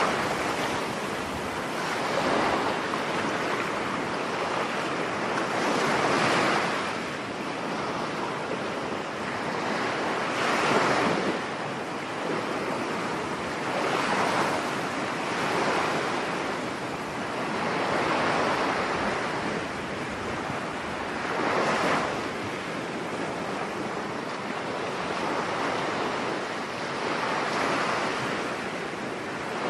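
Stormy sea waves breaking and washing onto a beach in rolling swells every few seconds, with wind blowing over it.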